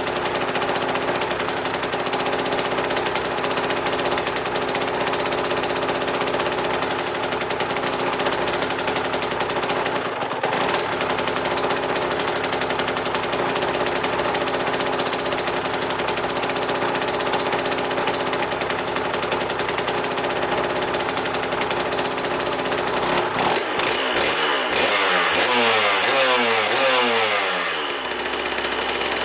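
Aprilia RS 125's single-cylinder two-stroke Rotax 122 engine idling steadily while warming up after a rebuild, then revved with a rising pitch for a few seconds near the end before settling back to idle.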